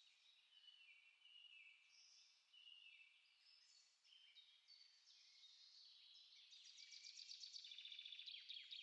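Several songbirds singing at once, quietly: overlapping short whistled phrases and chirps, with a fast, rising-in-loudness trill of rapid notes in the last couple of seconds.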